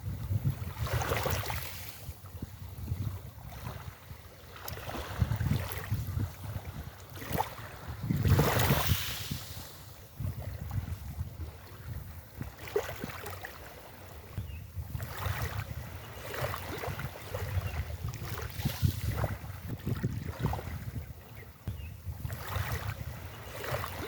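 Waves washing in on a beach in repeated surges, with wind gusting across the microphone as a low rumble underneath. The biggest wash comes about eight seconds in.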